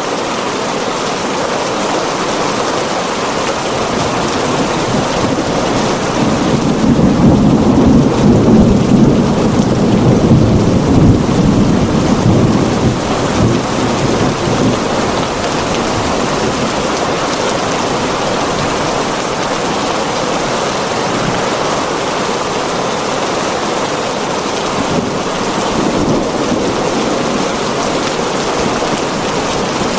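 Heavy rain drumming steadily on a tin roof, with a low roll of thunder swelling a few seconds in and rumbling away over about eight seconds.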